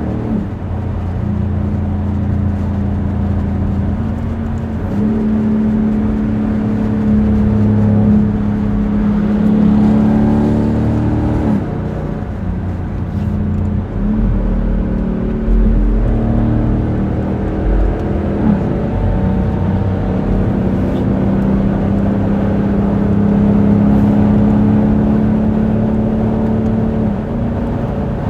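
Straight-piped exhaust of a 2021 Dodge Durango R/T's 5.7-litre HEMI V8, through an H-pipe with Dynomax Race Bullet resonators, giving a deep steady drone while driving on the highway. The engine note dips and resettles several times.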